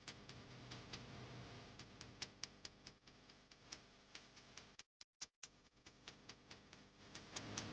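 Faint, regular ticking, about four ticks a second, over a low hiss, cutting out completely for about half a second a little past the middle.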